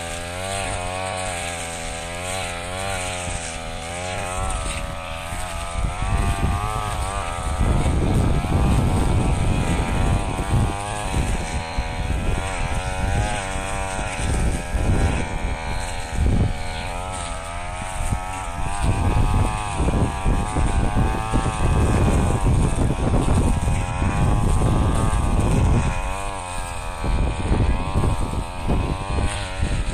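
Brush cutter engine running, its pitch rising and falling with the throttle; from about seven seconds in, repeated heavier bursts as the blade cuts into rice straw.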